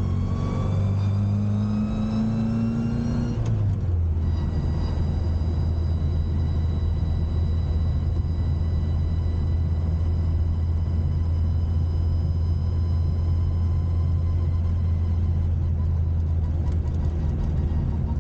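A modified classic Mini's engine pulling through a gear: its pitch rises for about three seconds, drops suddenly at a gear change, then holds steady as the car cruises.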